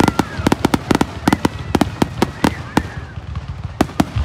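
Aerial fireworks display going off in a rapid barrage: sharp bangs and cracks about four a second, with a brief lull about three seconds in before the bangs resume.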